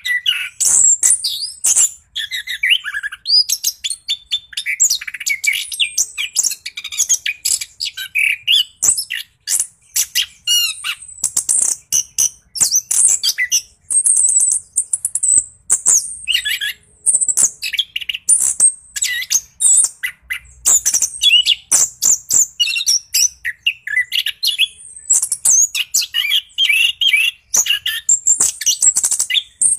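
Orange-headed thrush singing without pause in its rolling song: fast, varied high-pitched phrases and trills, one after another with hardly a break.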